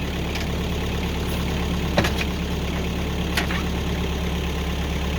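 Tractor backhoe's engine idling steadily at low throttle, with two short sharp knocks about two seconds and three and a half seconds in.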